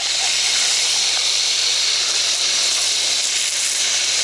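Fire hose nozzle spraying water in a steady, even hiss, with a low steady hum underneath.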